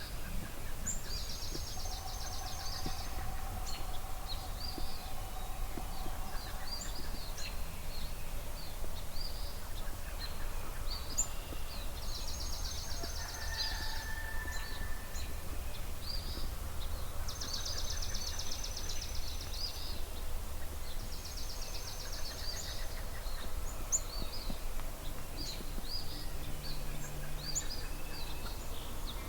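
Dawn chorus of several songbirds at a marsh: one bird repeats a fast, high trill about two seconds long four times, among many short high chirps from others, over a steady low rumble.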